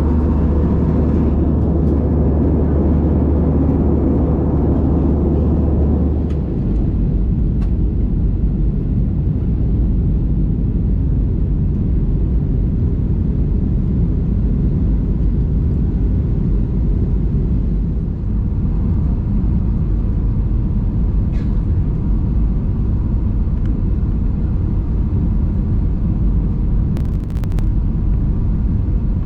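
Steady low rumble of an Airbus A320 heard from inside the passenger cabin. About six seconds in, the deep hum gives way to a rougher rumble.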